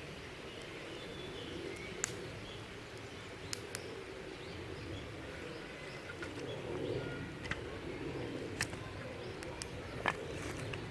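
Outdoor ambience with faint bird calls and a handful of scattered sharp clicks or snaps.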